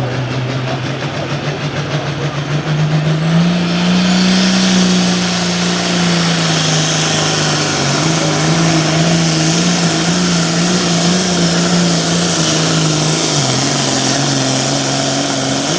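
Hot farm class John Deere pulling tractor's diesel engine running flat out as it pulls the weight-transfer sled down the track. Its pitch climbs about three seconds in, holds, then steps down and drops back near the end as the pull runs out.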